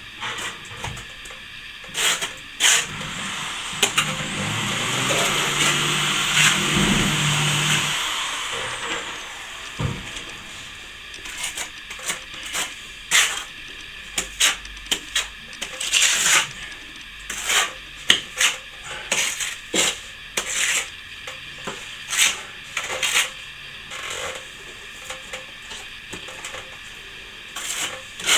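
Plastering trowel working a wall, a long run of short scraping and tapping strokes. A louder, steadier swell of noise rises and fades from about four to eight seconds in.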